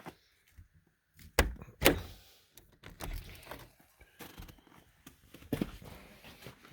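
A few knocks and thuds, two close together about a second and a half in and another about five and a half seconds in, with scraping and rustling between them.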